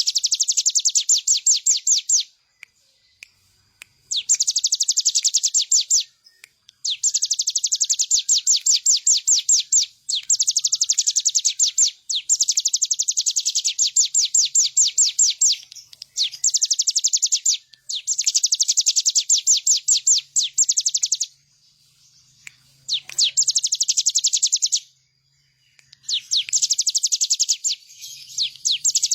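Ciblek gunung, a prinia, singing in fast high trills of rapidly repeated notes, about ten a second. The trills come in bouts of two to four seconds with short pauses between.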